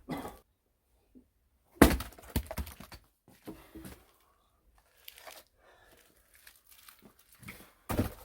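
Firewood handled and knocking: one sharp, loud knock about two seconds in, followed by a few smaller knocks, then scattered light clicks and crackles.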